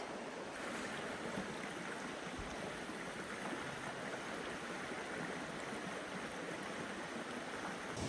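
River water flowing steadily, a continuous rushing wash that shifts slightly in tone about half a second in.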